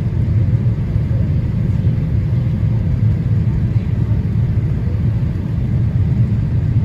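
Steady low rumble of airliner cabin noise aboard a Boeing 787-8 Dreamliner on approach: engine and airflow noise, even and unchanging.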